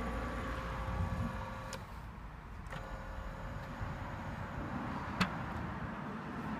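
A steady electric machine whine with a low rumble under it. It cuts off with a click a little under two seconds in, starts again about a second later, and there is another sharp click about five seconds in.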